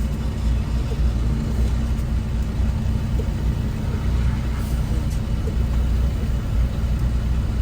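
Semi-truck's diesel engine running steadily, heard from inside the cab as a low, even drone.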